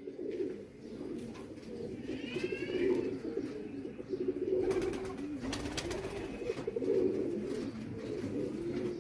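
Domestic pigeons cooing, several overlapping and without a break. A brief higher chirp comes about two seconds in, and scattered light clicks or rustles come about five seconds in.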